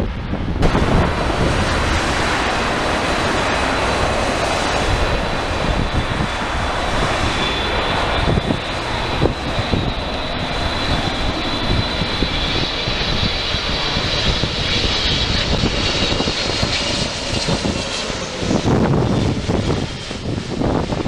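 Wide-body jet airliner's engines passing close by: a loud, steady jet rush with a thin high whine over it, easing off near the end.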